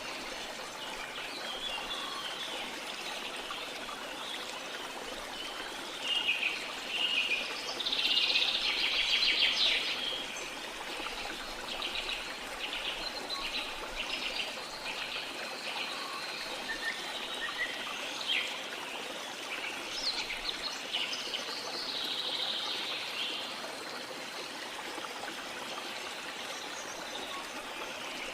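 Steady rush of a flowing river with tropical forest birds calling and singing over it. The birds are busiest in the first half, where a loud run of rapid trills about eight to ten seconds in is the loudest part.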